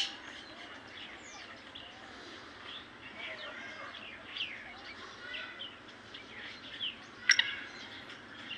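Birds chirping and calling, many short rising and falling notes, with one louder brief call about seven seconds in.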